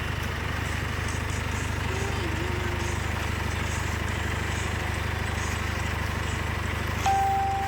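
A small engine running steadily with an even low hum. About seven seconds in, a sudden, clear, high steady tone starts and holds.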